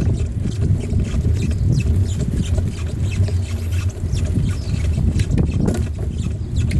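Wind buffeting the microphone of a camera carried on a moving bicycle: a loud, uneven low rumble, with faint light clicks and rattles over it.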